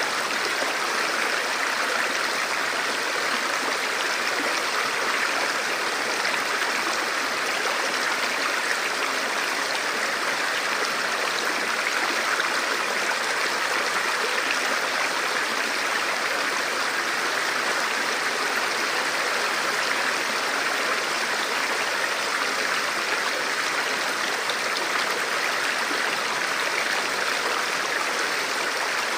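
Forest river or stream flowing steadily over rocks, a continuous rushing and burbling of water.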